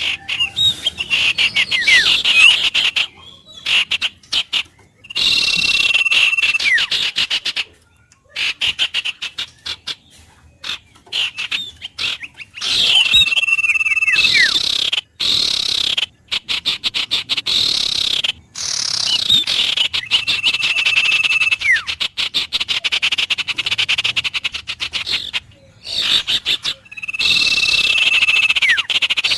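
Birds and frogs calling together in a loud chorus, with rapid pulsing trills that stop and start. A held whistle ending in falling notes recurs about every seven seconds.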